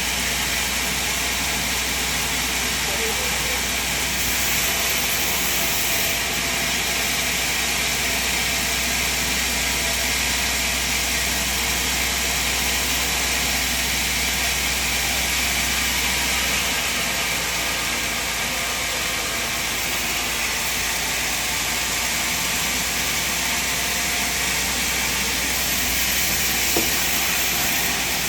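Sawmill machine running with a steady, even noise and no distinct strokes; the low rumble underneath drops about 17 seconds in.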